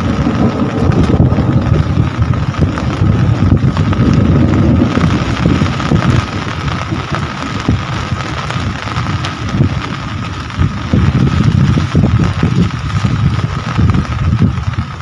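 Heavy rain falling under a loud, uneven low rumble that eases somewhat around the middle and builds again near the end.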